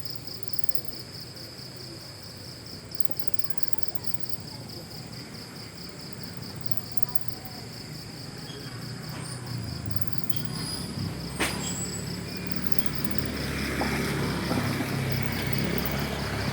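Insects chirring in a steady, evenly pulsing high trill. About ten seconds in a low engine rumble of a motor vehicle comes in and grows louder, with a single sharp click shortly after.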